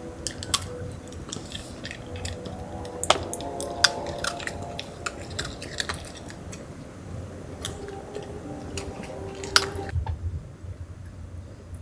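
A person chewing and biting food close to the microphone, with scattered sharp clicks throughout.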